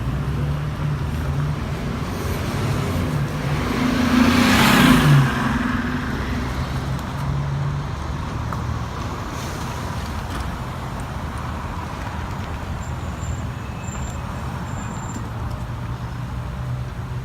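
Street traffic: vehicle engines running at a low, steady hum, and one vehicle driving past about four to five seconds in, its tyre hiss swelling and fading as its engine note drops in pitch.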